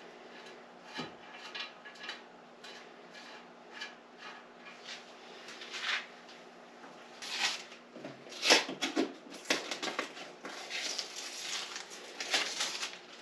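Objects being handled: scattered light clicks, rubs and clatter, sparse at first and busier and louder in the second half, with the loudest knock about eight and a half seconds in.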